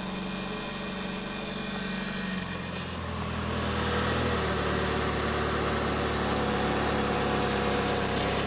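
2000 Chevy Cavalier's four-cylinder engine idling just after a January cold start, a little rattly but steady. The engine note shifts about two and a half seconds in and gets somewhat louder from about three seconds in.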